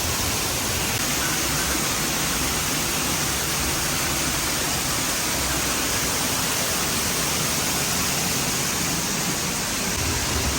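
Sgwd yr Eira waterfall: a steady, loud rush of falling water.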